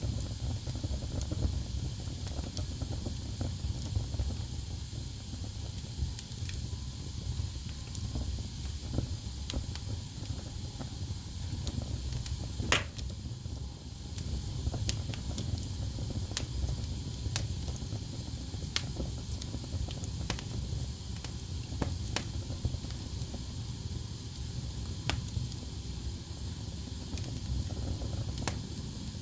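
Wood fire burning in a fireplace: a steady low rumble and hiss of flames with scattered crackles and pops, the sharpest pop a little before halfway through.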